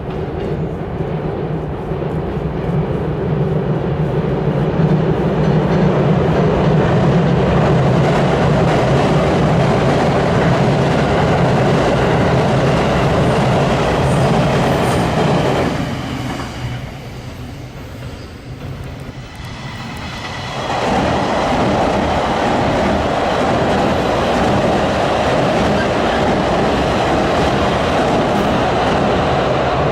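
Electric trains crossing a railway bridge over a river, the wheels and bridge running loud and steady. About halfway through the sound dips for roughly five seconds, then a second loud pass follows with a higher-pitched running sound.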